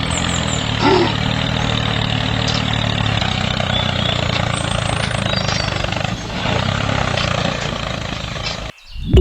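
Tractor engine running steadily at a low, even pitch, cutting off suddenly near the end.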